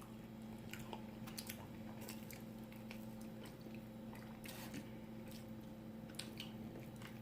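A person chewing a mouthful of chicken in mole sauce: soft, wet mouth clicks and smacks, over a faint steady hum.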